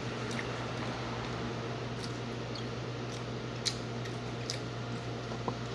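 Faint eating sounds from someone eating fresh lumpia: a few soft clicks and squishes, over a steady low hum.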